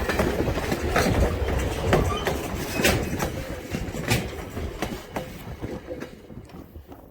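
A train's cars rolling past on jointed track, wheels clicking over the rail joints about once a second, fading away as the train moves off.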